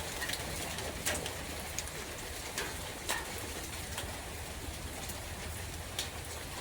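Steady rain falling in a forest, an even hiss with a few separate sharp drips landing close by.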